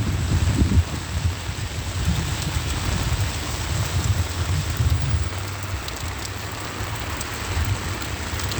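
Steady heavy rain falling, with a low rumble of wind on the microphone.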